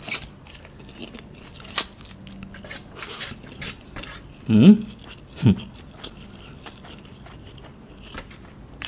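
Close-up eating sounds of a person chewing instant noodles, with sharp mouth clicks and smacks. About halfway through, he makes two short hums that fall in pitch.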